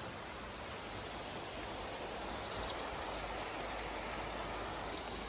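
Rain falling steadily, an even hiss with a few faint drip ticks.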